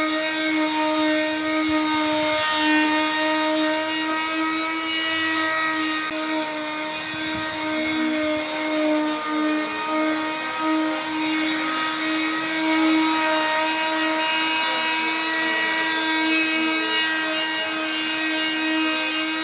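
Electric power tool running at a constant speed throughout, a steady whine over a hiss.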